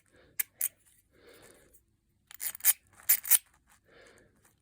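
Cleaned but unoiled mechanism of a Lucas No. 216 bicycle bell being worked, giving dry clicking and rasping in short bursts with no ring. The strikers are not yet fitted.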